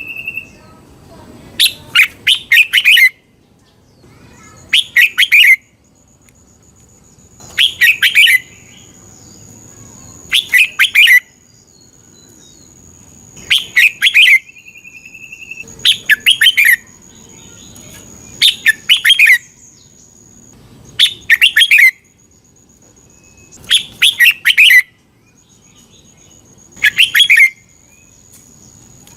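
Red-whiskered bulbul singing its short, bubbling song phrases, about ten of them, one every two to three seconds, with quiet gaps between. A faint steady high-pitched whine runs underneath.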